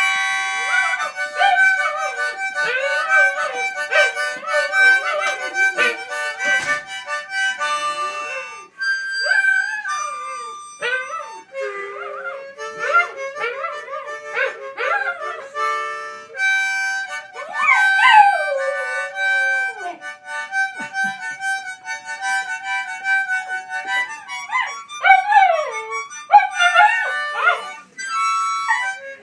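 Harmonica playing a tune while a dog howls along, its howls sliding up and down in pitch over the held harmonica notes.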